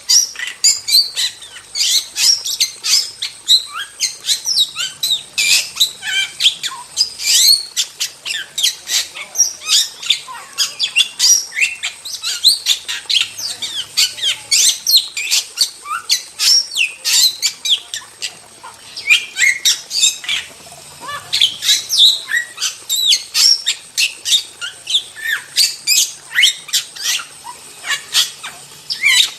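Starling (jalak) singing a continuous rapid stream of short, sharp high notes, whistles and chatters, several a second without pause.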